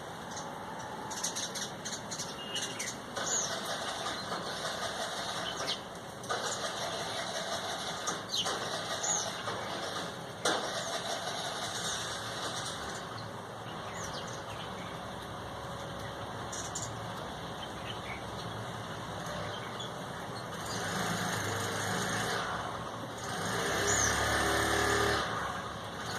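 Steady street traffic noise with a vehicle engine growing louder near the end, and short high bird chirps now and then.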